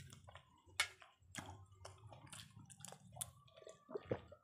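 People eating biryani with their hands: wet chewing and lip smacking in a quick series of small clicks. There is a sip of water from a glass near the end.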